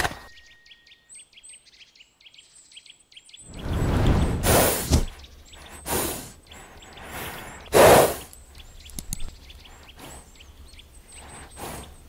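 Small birds chirping in repeated short high notes. From about three and a half seconds in, a low rumble sets in, along with several short noisy bursts, the loudest near eight seconds.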